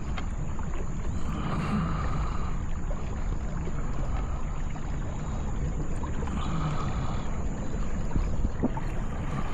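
Steady low rumble of wind and water noise from a kayak under way in rough water, with no sharp events standing out.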